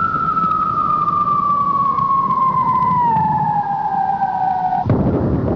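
Electric traction motor whine of a Trenord TSR electric train: one steady tone falling slowly in pitch, with a small step down about three seconds in, typical of the train slowing. It cuts off suddenly near the end, and a louder rumble of the running train takes over.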